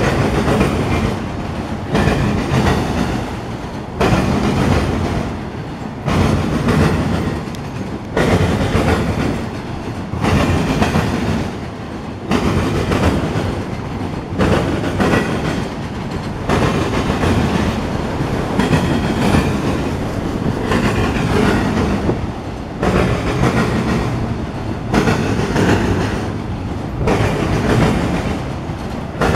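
Freight train of autorack cars rolling past, steel wheels clacking over the rail joints about every two seconds over a steady rumble.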